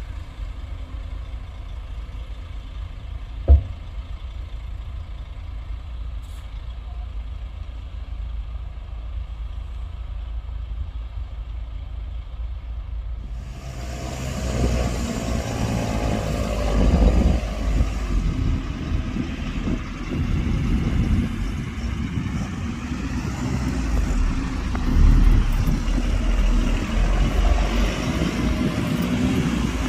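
Diesel engine of a heavy earthmoving machine running with a low, steady rumble, with one sharp knock a few seconds in. About halfway through it gets much louder and fuller and keeps surging up and down as the machine works under load.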